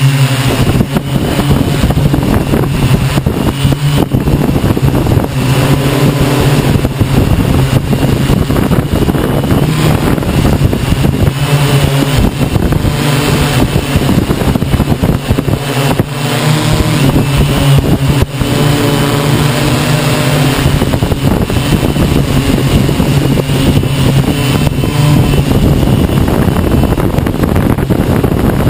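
Hexacopter's electric motors and propellers droning steadily at a low pitch, under loud, gusty wind noise.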